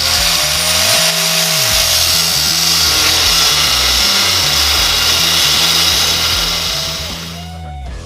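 Power tool cutting a strip off steel flat stock: it spins up, cuts steadily with a loud hiss, and winds down about seven and a half seconds in.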